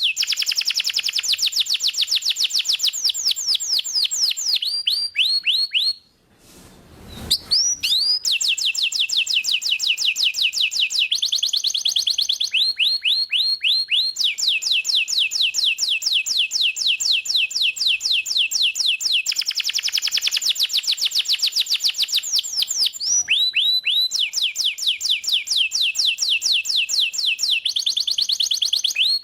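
Domestic canary singing continuously in rapid trills, each a fast run of repeated notes, changing from one trill to the next every second or two. The song breaks off for about a second around six seconds in, then resumes.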